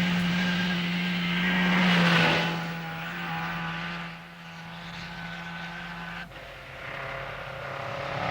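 Rally car engine passing at speed, loudest about two seconds in, then fading away into the distance.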